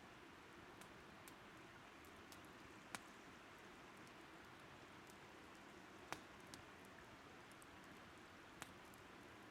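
Faint wood fire crackling, with three sharp pops and a few lighter ticks, over a steady low rush of flowing river water.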